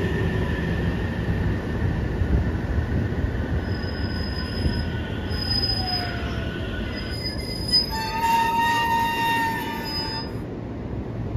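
JR Central 313 series 5000-subseries electric train braking to a stop: a steady rumble of wheels on rail with a falling whine. Brake and wheel squeal with several high tones follows in the last few seconds before it halts, in a stop where the uploader suspects the driver eased off the brake just before halting.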